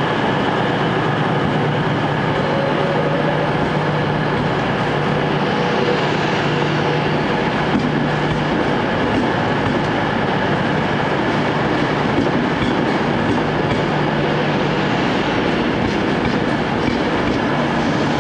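Class 390 Pendolino electric train moving slowly along the platform: a steady hum over continuous wheel and running noise.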